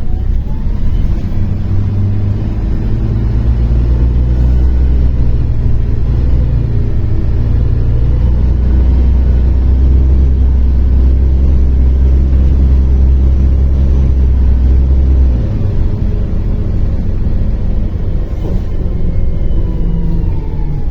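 MAZ-103 city bus under way, heard from inside: its diesel engine drones deep and steady under power, with faint whines rising and falling above. About fifteen seconds in the deep drone drops away suddenly, leaving lighter running and road noise.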